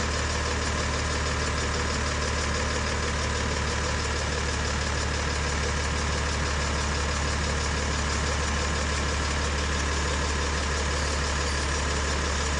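Engine idling sound effect: a steady, unchanging low hum under an even hiss.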